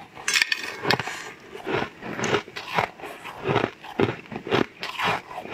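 A bite into a purple granule-coated cake just after the start, then chewing in a steady rhythm of about two chews a second.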